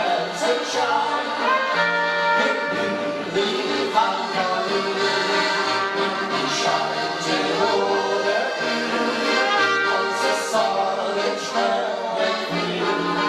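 Band playing an instrumental passage of a folk-pop song, full chords over a bass line that steps from note to note, with no singing yet.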